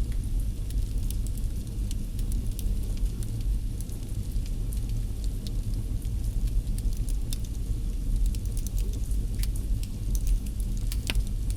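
Wood fire in a fireplace crackling, with many small sharp pops over a steady low rumble of the flames.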